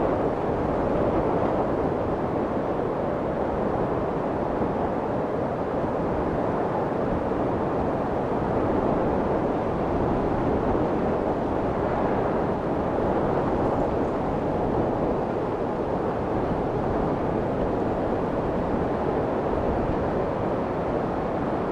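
Steady baby-soothing white noise, a deep even rush with little high hiss, meant to imitate the sound of the womb.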